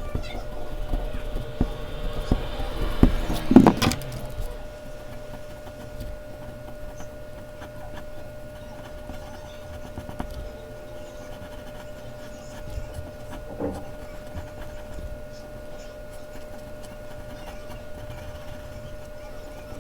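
Mechanical pencil scratching on Bristol paper, with a few knocks in the first four seconds, the loudest just before four seconds in; after that the strokes go on faint and light.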